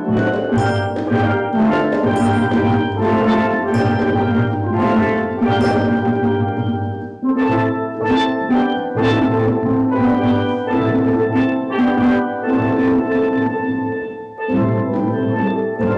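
Steel drum band playing a tune: struck steel pans ringing in quick notes over a steady bass line, with short breaks between phrases about seven seconds in and near the end.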